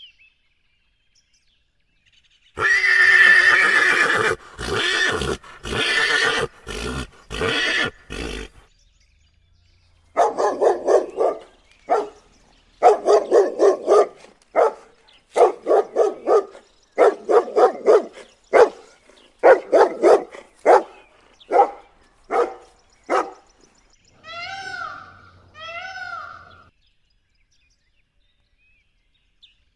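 A string of animal calls: a few seconds of harsh, rough calls, then a puppy barking about twenty times in quick runs, then a peacock giving two loud wailing calls.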